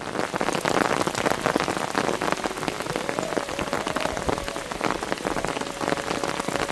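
Heavy rain falling, a dense steady patter of drops, starting abruptly.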